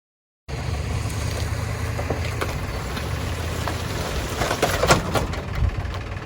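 A large truck engine running steadily under a low drone, with a cluster of knocks and clatters about four to five seconds in. The clip opens with half a second of dead silence.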